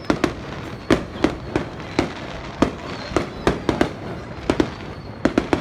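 Fireworks display: a rapid, irregular run of sharp bangs, about three a second, over a steady background din of distant bursts.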